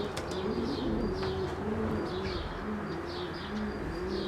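Several homing pigeons cooing over and over in low, arching calls. Short high chirps repeat above them.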